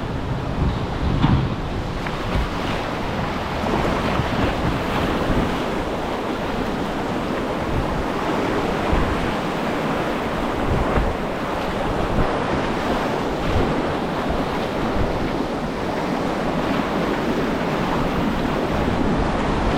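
Whitewater rapids rushing steadily around a kayak, with wind buffeting the camera microphone.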